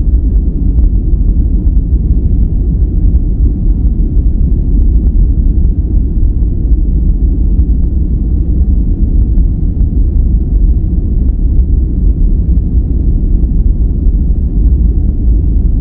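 Steady, loud noise with no tones, rhythm or changes, weighted deep and low in pitch with little hiss on top, more like brown noise than flat white noise.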